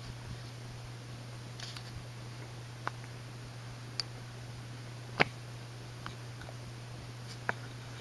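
1986 Four Seasons Seville ceiling fan running on its lowest speed, about 120 RPM: a quiet, steady motor hum. A few scattered sharp clicks sound over it, the loudest about five seconds in.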